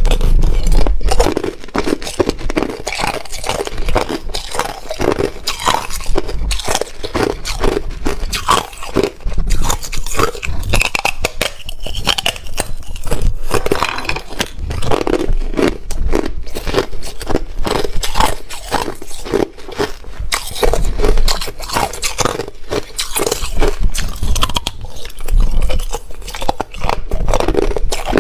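Hard ice being bitten and chewed close to the microphone: a dense, continuous run of crisp crunches and cracks.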